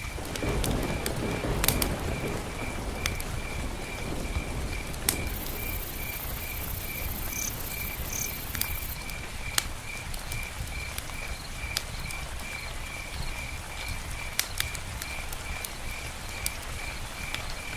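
Campfire crackling with scattered sharp pops over light rain, a little louder in the first few seconds. A steady high chirp repeats about twice a second.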